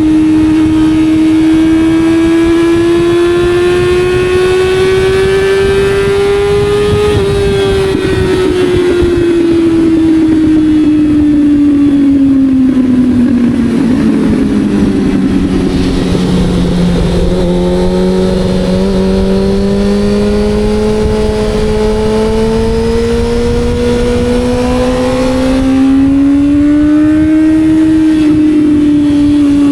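Sport motorcycle engine running under load on the road, its pitch climbing gently for several seconds, falling steadily as it slows to its lowest point about halfway through, then climbing again and easing slightly near the end. Wind rushing past the microphone runs under it.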